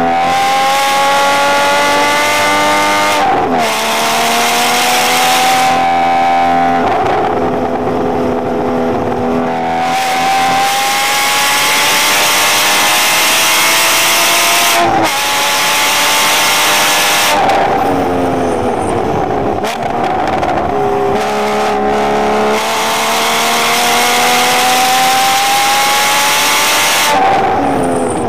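Porsche sports car engine heard from inside the cabin, pulling hard on track: revs climb repeatedly and drop sharply at upshifts, with a stretch of falling revs about two-thirds through as the car slows for a corner.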